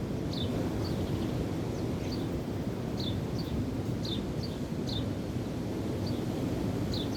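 Steady rush of wind and waves, with a bird repeating short, high chirps that fall in pitch, about one a second and often in pairs.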